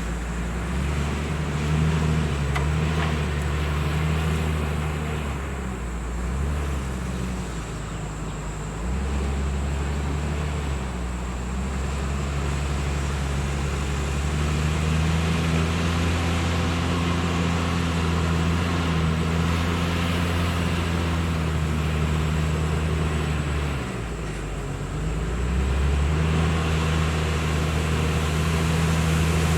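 Diesel engine of a JCB 432ZX wheel loader working, its low drone shifting in pitch and strength as the load changes. It drops off briefly about eight seconds in and again about twenty-four seconds in, then picks back up.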